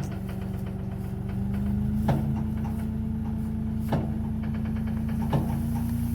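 Diesel engine of farm machinery running steadily, its pitch rising a little about a second and a half in. Sharp clicks or knocks come through it about four times.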